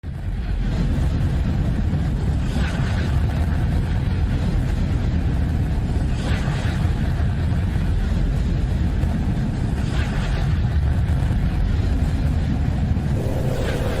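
Deep, steady rumbling noise of a space sonification presented as a planet's sound, with faint brighter swells about every three to four seconds.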